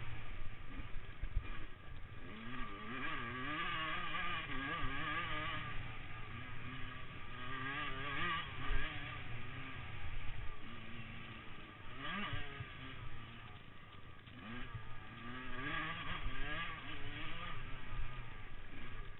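Several motocross bikes running on a track, their engines revving up and down in pitch as the riders accelerate and back off, with louder passes every few seconds.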